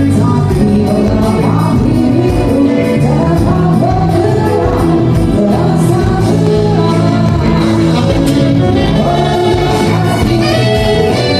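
A live band playing a song with a singer: steady bass and drums under guitar and vocals.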